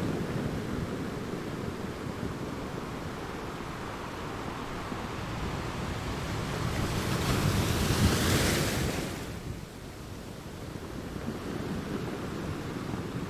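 Sea waves washing on a shore: steady surf that builds to one loud breaking wave about eight seconds in, then falls away to a softer wash.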